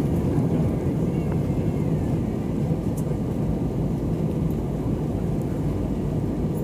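Steady engine and airflow noise heard inside an airliner's cabin on approach to landing.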